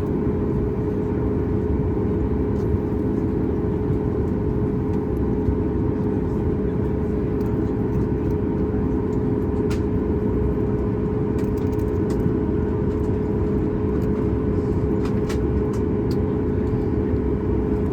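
Steady cabin noise of a Boeing 737 MAX 8 with its CFM LEAP-1B engines running: an even rumble under a constant droning hum, with a few faint ticks partway through.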